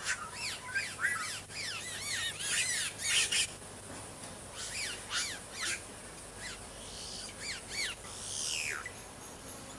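Boyeros (caciques) calling: many short, arched whistled notes in quick chattering clusters, with a longer falling note near the end.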